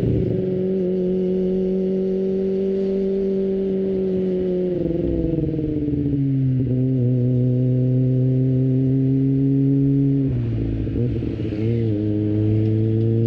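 Kawasaki ZX-25R's 250cc inline-four engine through an Akrapovic exhaust, heard onboard while riding. Its pitch sinks gently, steps down about five seconds in, wavers and drops again near eleven seconds, then holds steady.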